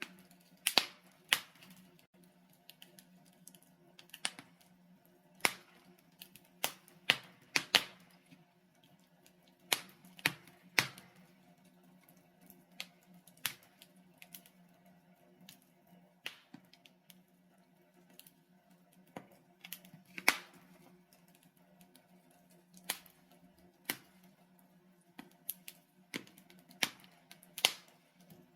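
Burning logs in a fireplace crackling and popping: sharp irregular pops, sometimes in quick clusters, over a faint low steady hum.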